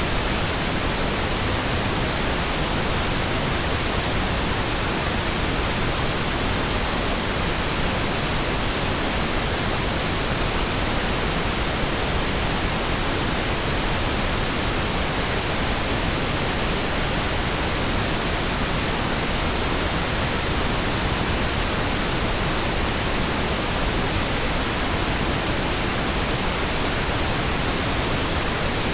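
Steady pink noise: a smooth, even hiss spread across all pitches, with no changes or interruptions.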